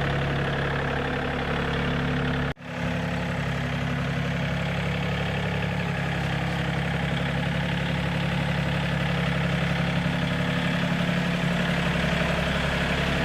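Tractor engine idling steadily, with a brief break in the sound about two and a half seconds in.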